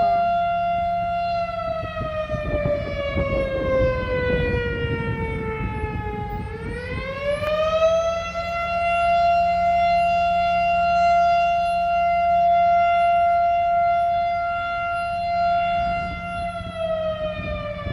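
A siren sounding a long, steady tone. About a second in it slowly sags in pitch, climbs back up about seven seconds in and holds, then starts to fall again near the end. A low rumble sits under it between about two and six seconds in.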